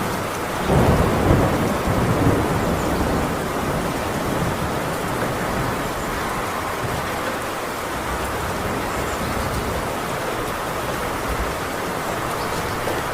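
Heavy rain pouring steadily on a metal roof. A roll of thunder rumbles in about a second in, is loudest over the next second or two, then fades away while the rain carries on.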